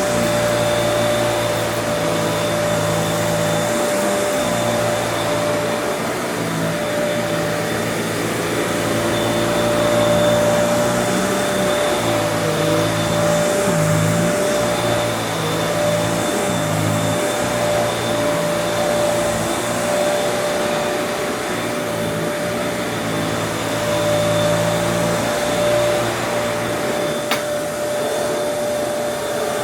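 Kenmore Elite upright vacuum cleaner running steadily with a constant motor whine, the lower hum wavering a little as it works. There is a single click about three seconds before the end.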